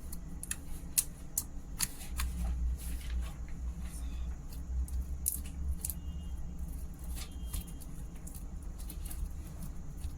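Bubble slime being pressed and pulled on a homemade bubble pad, giving irregular small sticky clicks and crackles, several a second, over a low steady hum.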